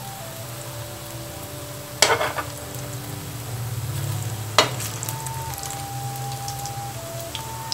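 Soya kababs sizzling as they shallow-fry in hot oil. A spatula knocks sharply against the pan about two seconds in, with a short rattle after it, and again just past halfway. A simple background melody plays throughout.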